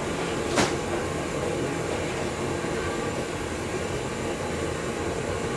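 Chicken-plucking machine running with a steady mechanical hum, with a single sharp click less than a second in.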